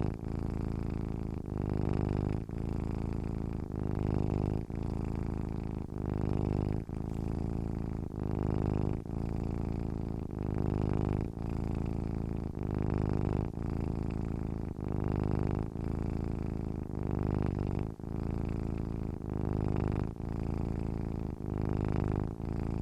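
Domestic cat purring: a low, rumbling hum that swells and dips in a regular rhythm, about one cycle a second as it breathes in and out.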